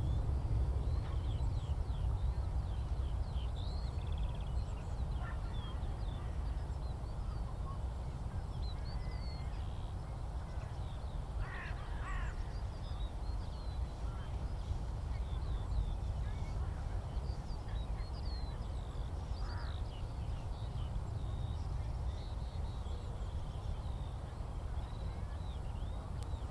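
Skylarks singing, a continuous scatter of high, quick chirps and trills, over a steady low rumble. About twelve seconds in, another bird gives a louder, harsher call, with a fainter one later.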